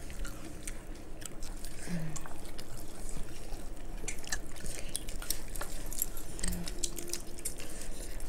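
Close-up eating sounds: wet chewing and lip smacking as several people eat saucy vegetable manchurian with their hands, with many small sticky clicks. Two brief low hums come about two seconds in and again past six seconds.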